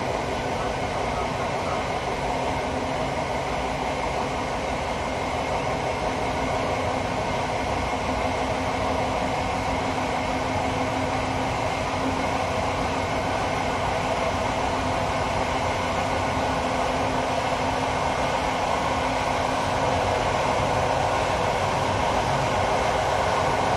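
Passenger train running on electrified main-line track, heard from the rear of its last carriage: a steady rumble of wheels on rails with the coach rattling, growing slightly louder over the stretch.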